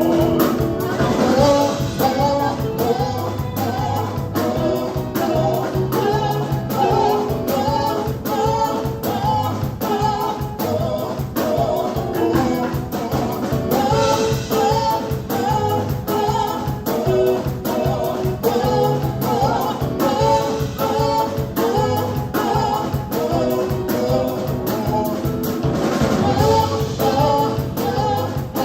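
Live gospel praise band: a group of singers over a drum kit keeping a steady beat, with a bass line underneath.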